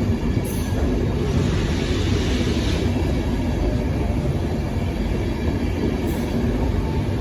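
LNER InterCity 225 train's coaches rolling past on departure: a steady rumble of wheels on rail, with a hiss swelling and fading about two seconds in.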